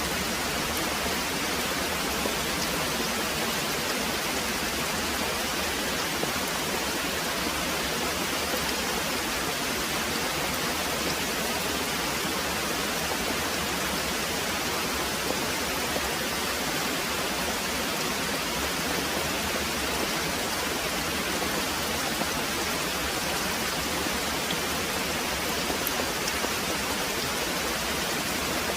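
Very heavy rain pouring steadily, an even, unchanging hiss.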